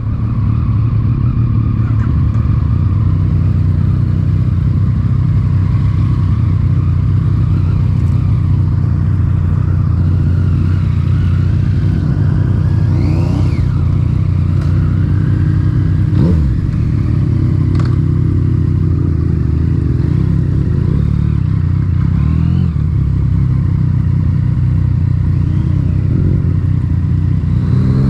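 Yamaha MT-09's three-cylinder engine through an Akrapovic titanium exhaust, running loud at steady revs; the revs rise near the end.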